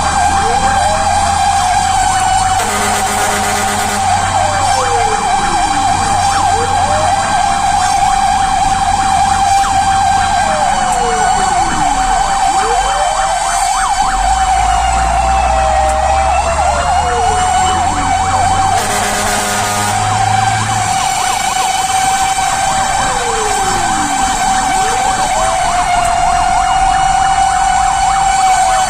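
Fire truck responding with its sirens going: one siren holds a steady high wail while a second repeatedly sweeps down in pitch and winds back up. Two short harsh blasts sound about 3 and 19 seconds in, over the truck's engine running underneath.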